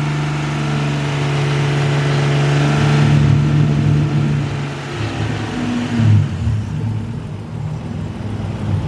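A 1990 Nissan Maxima GXE's 3.0-litre V6 runs at raised revs for about five seconds, then drops back toward idle with a brief blip about six seconds in. It is a 92,000-mile engine with no evident fault, judged "not bad".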